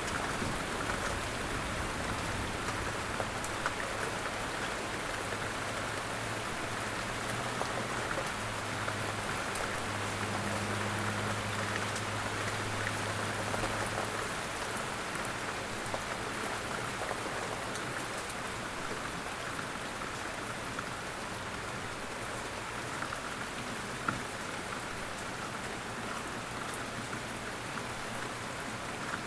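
Steady rain falling, an even patter with no break. A faint low hum sits underneath for about the first half, then fades away.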